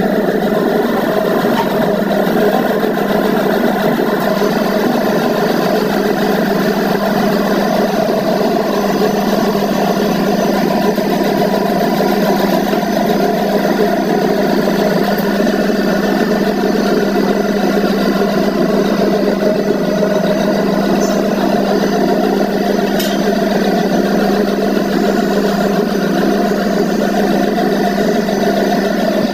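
A motor running at a steady speed, an even hum with no change in pitch or level.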